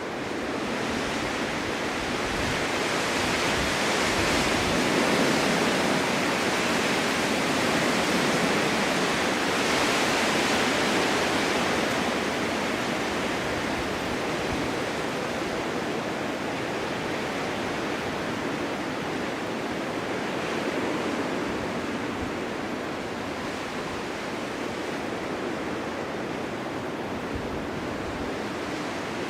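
Strong winter wind blowing steadily in gusts, a dense rushing noise that swells for several seconds and then slowly eases off.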